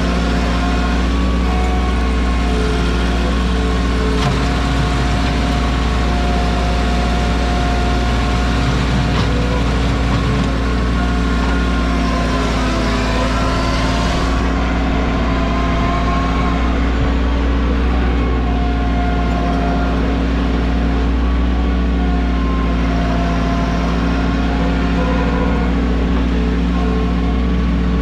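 Mahindra 1626 tractor's three-cylinder diesel engine running steadily.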